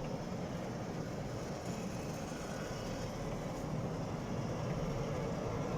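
Steady low rumble of running machinery, even and unbroken.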